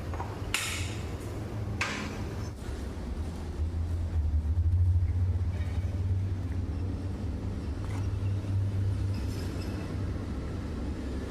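Low, steady machine hum that swells about halfway through, with a couple of sharp metal clinks near the start.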